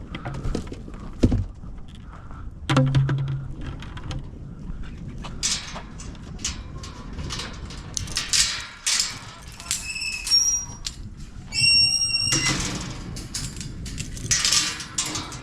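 Footsteps and handling noises while walking, with a thud about three seconds in. Two short high-pitched squeaks come about ten and twelve seconds in.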